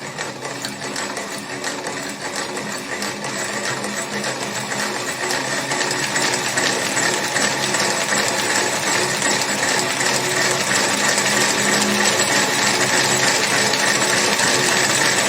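An engine running with a fast, even mechanical clatter, getting steadily louder.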